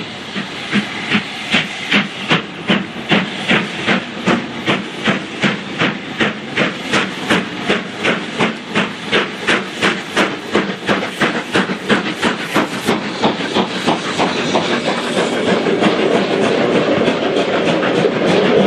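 LMS Stanier Black Five 4-6-0 steam locomotive 45212 working under steam, with a steady exhaust beat of about two and a half chuffs a second and a hiss of steam. About thirteen seconds in, the beats blur into a continuous, growing rush of the train going by.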